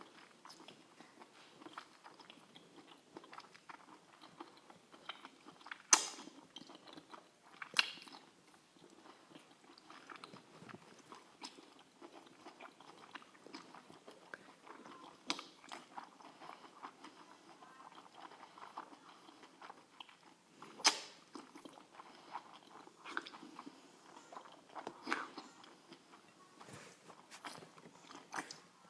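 A person chewing seafood close to the microphone, with wet mouth noises and a handful of sharp clicks standing out, the loudest about six seconds in and about twenty-one seconds in.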